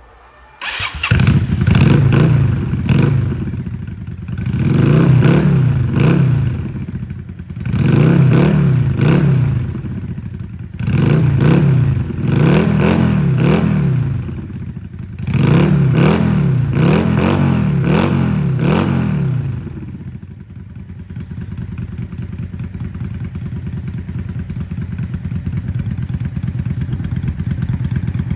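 Yamaha Drag Star 400's air-cooled V-twin engine starts about a second in. It is blipped repeatedly, two or three revs at a time, for about twenty seconds, then settles into a steady idle.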